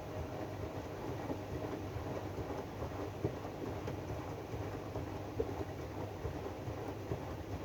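AEG DualSense washing machine running its drum-clean cycle: the drum turning, a steady rumble with an irregular clatter of small knocks and rattles.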